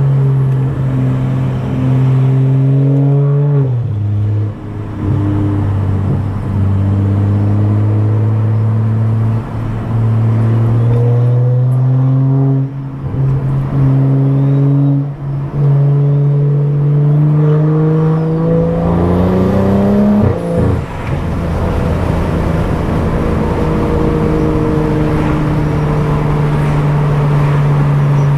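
Stage 2+ tuned BMW F10 535i's turbocharged straight-six with a loud aftermarket exhaust, heard on the move. The engine note climbs slowly under acceleration and dips at several gear changes, then holds a steady pitch while cruising near the end.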